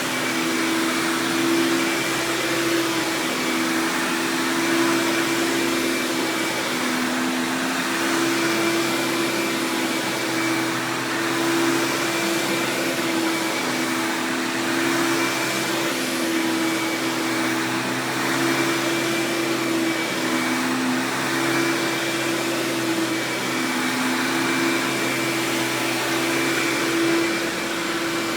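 Hoover Power Drive Supreme upright vacuum running steadily: a constant motor whine over the hiss of airflow.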